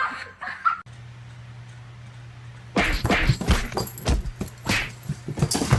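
A low steady hum, then from about three seconds in a rapid, irregular run of loud knocks and thumps.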